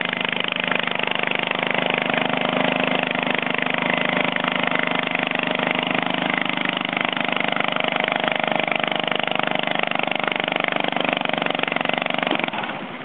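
Massey Ferguson 10 garden tractor's engine running hard and steady under load while pulling, then dropping off suddenly near the end.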